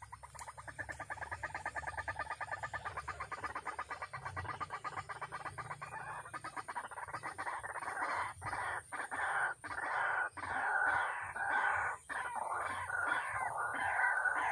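White-breasted waterhen calling: a long run of rapid, harsh repeated notes that grows louder, breaking into choppier, louder phrases about halfway through.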